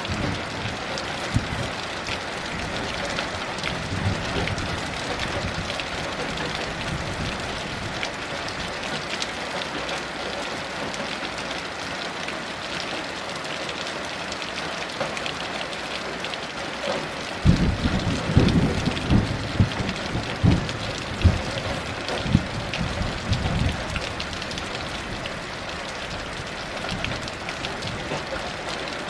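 Heavy rain falling steadily. A little past halfway, thunder rumbles in low, rolling swells for several seconds before fading back under the rain.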